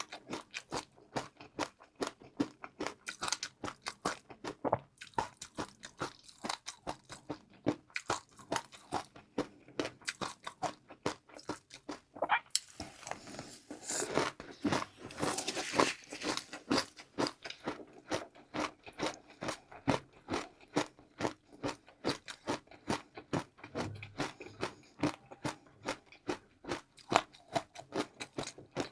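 Close-miked chewing of crunchy food: a rapid, continuous run of crunches, growing denser and louder for a few seconds around the middle.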